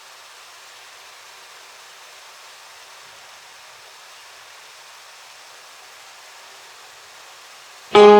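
Steady faint hiss of background noise. Near the end a plucked string instrument comes in suddenly with a loud, ringing note.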